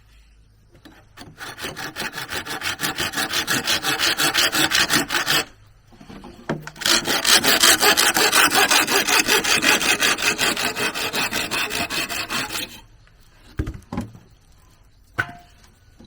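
Hand saw cutting through bamboo with quick, even back-and-forth strokes in two bouts of about five seconds each, a short pause between them. A few sharp knocks follow near the end.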